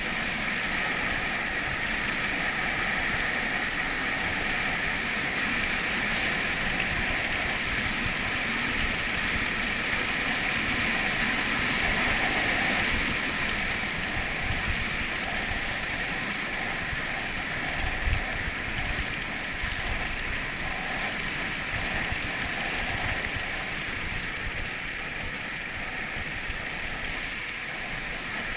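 Steady rushing hiss of wind over the microphone while riding downhill, with gusty low buffeting. There is one louder bump past the middle.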